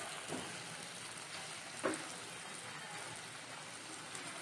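Potato smileys deep-frying in hot oil in a pan, a steady sizzle of bubbling oil. Two brief knocks come a third of a second and about two seconds in, the second the louder.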